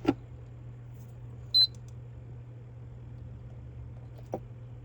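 A single short, high electronic beep about one and a half seconds in, over a steady low hum. There are faint clicks near the start and a little after four seconds.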